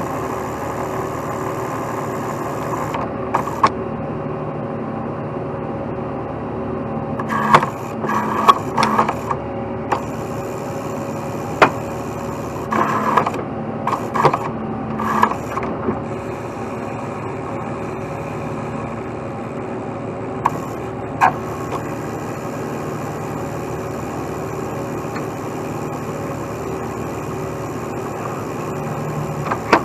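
Heavy truck engine running steadily, with scattered short clanks and knocks, several in a cluster near the middle.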